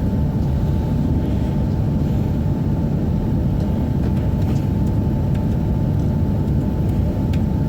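Steady low hum inside a stationary Tohoku Shinkansen Hayabusa car, with a faint constant tone above it: the train's onboard equipment running while it stands halted.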